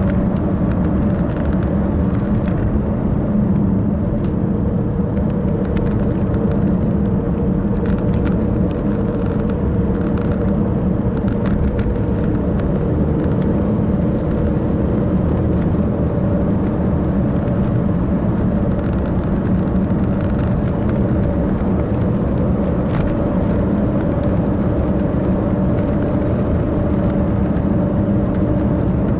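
Steady road and engine drone heard inside a moving car's cabin, low and unchanging.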